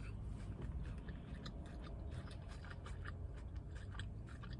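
Close-up chewing of a mouthful of chicken salad: soft, irregular crunches and wet clicks, over a steady low hum.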